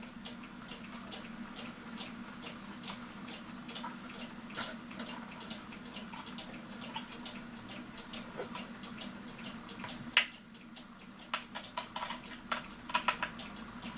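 Small clicks and scratches of hand work fastening a cuckoo clock's bellows to the case with a screw, over light, evenly spaced ticks and a steady low hum. A cluster of sharper clicks comes near the end.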